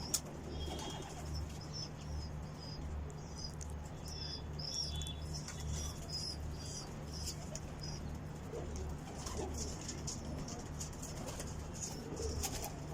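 Domestic pigeons at a loft: wings flapping and soft cooing, with many short high chirps from small birds and a steady low hum underneath.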